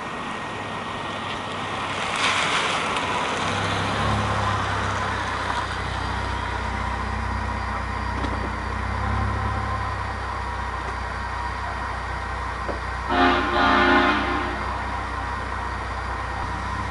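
2009 Mazda 6's 3.7L V6 running through Borla Pro XS mufflers with the rear resonator deleted, a steady low exhaust drone that grows louder about four seconds in. Near the end a horn sounds for about a second and a half.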